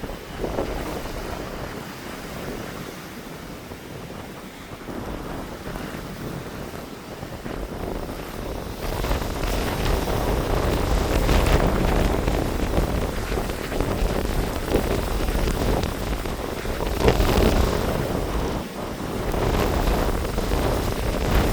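Blizzard wind gusting hard, buffeting the microphone with a heavy low rush. It strengthens about nine seconds in and swells in stronger gusts a few times after.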